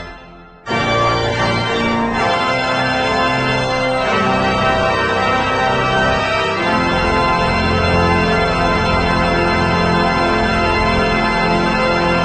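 Organ music: full sustained chords that change every two seconds or so, after a short break about half a second in.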